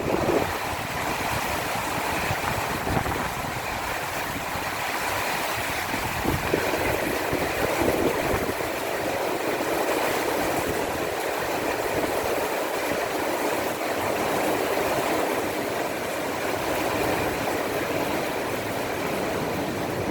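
Heavy rain pouring steadily during a rainstorm, an even rushing hiss, with a low rumble in the first several seconds that dies away.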